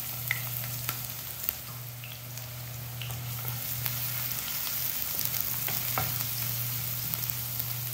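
Chopped ginger and garlic sizzling steadily in hot sunflower oil in a nonstick frying pan, stirred with a wooden spatula that knocks against the pan now and then. A steady low hum runs underneath.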